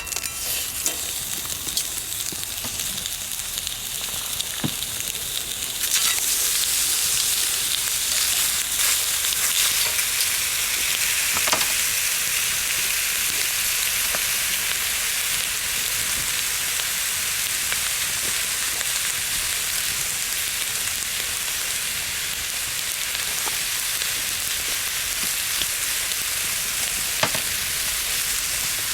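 Bacon sizzling in a pan over a campfire, a steady dense hiss that gets louder about six seconds in, with a few sharp pops.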